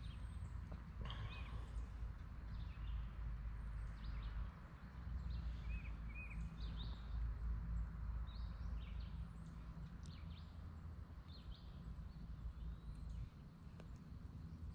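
Small birds chirping now and then, short high calls scattered through, over a steady low rumble.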